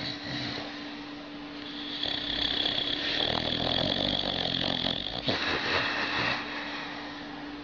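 A sleeping dog snoring with an eerie sound: one long snore starting about two seconds in, then a shorter one, over a steady low hum.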